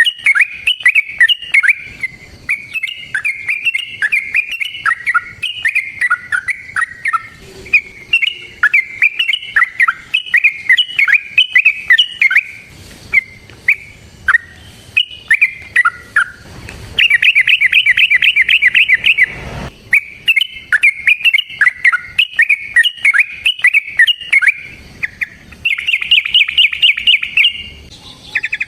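Yellow-vented bulbul (trucukan) singing loudly in a string of bubbly, chattering phrases. Twice, about halfway through and again near the end, the song breaks into a fast, rapid-fire trill, the 'ropel' of a bird in fighting song.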